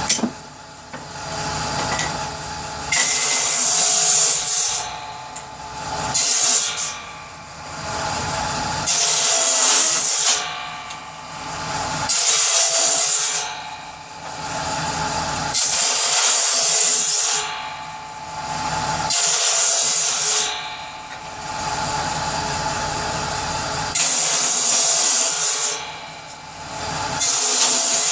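Power saw cutting kindling wood: about eight short cuts of one to two seconds each, a few seconds apart, with the saw running steadily between cuts.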